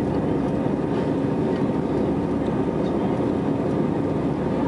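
Steady roar of an Airbus A319's jet engines and rushing air, heard inside the cabin as the airliner climbs after takeoff.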